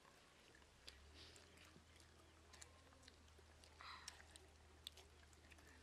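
Faint eating sounds of children chewing and biting roast chicken by hand: scattered soft clicks and smacks, with a brief louder rustle about four seconds in, over a low steady hum.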